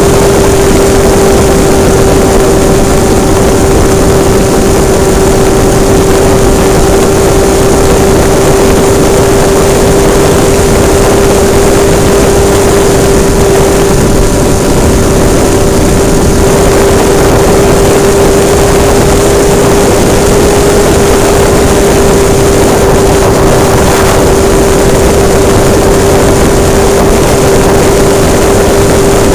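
Hobbistar 60 RC model airplane's engine running at a steady, high throttle, very loud and close, heard from a camera mounted on the plane, with a constant high buzz over heavy rushing noise.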